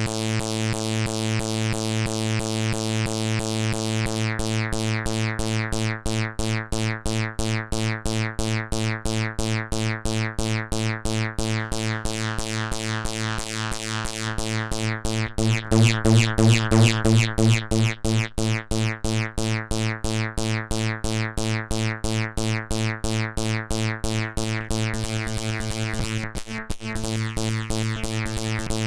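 Synthesized bass line from the Zic Pixel DIY groovebox's bass engine: one low note repeated in quick, even pulses. For a couple of seconds around the middle it gets brighter and louder.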